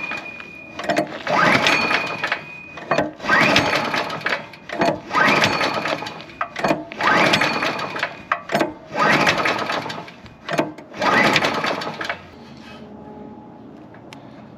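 Small pump engine being turned over with its spark plug removed, seven cranking bursts about two seconds apart, each rising in pitch as it spins up; this clears out gasoline that leaked into the cylinder past a faulty carburetor float.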